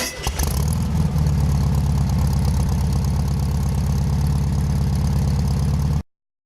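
Chevrolet Cruze's 2.0-litre turbo diesel engine idling steadily, settling about a second in. The sound cuts off suddenly near the end.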